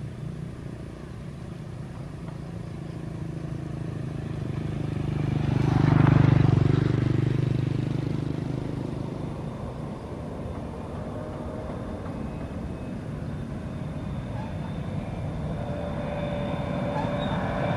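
A motor vehicle's engine passing by over a steady low hum: it grows to its loudest about six seconds in, then fades away, and the rumble builds again near the end.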